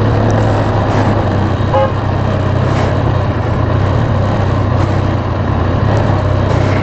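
Heavy motorcycle's engine running steadily at low speed in first gear, under a constant hum of wind and road noise. A short beep sounds about two seconds in.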